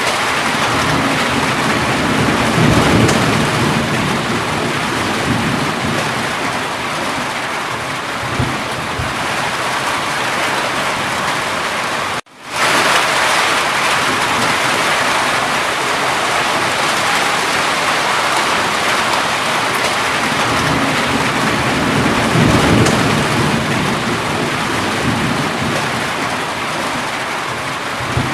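Steady heavy rain falling, with low rumbles of thunder swelling twice, about three seconds in and again near the twenty-second mark. About twelve seconds in, the sound drops out for an instant and fades back in.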